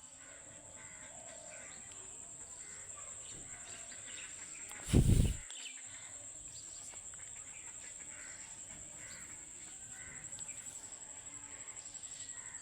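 Faint birds chirping and calling over a steady high-pitched whine, with one sudden loud noise lasting under a second about five seconds in.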